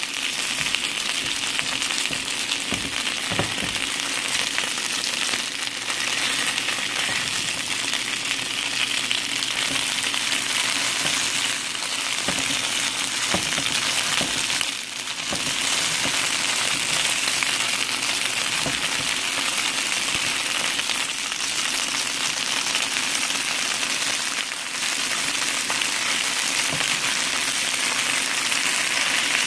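Slices of Chinese carrot (daikon radish) cake sizzling steadily as they pan-fry in oil, with a few light clicks of wooden chopsticks against the pan as the slices are turned.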